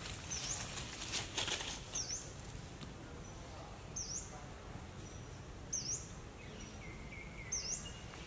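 A bird repeating a short, high chirp that dips and rises, five times at intervals of about a second and a half to two seconds. A brief rustling noise comes about a second in, and a fainter, lower held whistle near the end.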